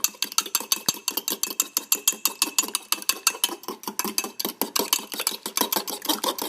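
Fork whisking egg briskly in a mug: a fast, even run of clinks, about seven a second, as the tines strike the mug's sides.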